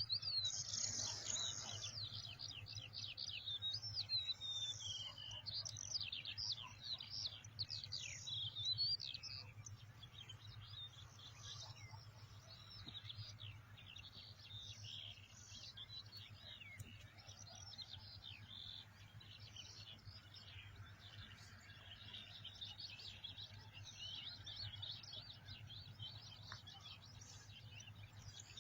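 Many small birds chirping and calling over each other in a dense, high-pitched chorus of quick twitters and short whistles. It is loudest in the first nine seconds and thins out afterwards, over a steady low hum.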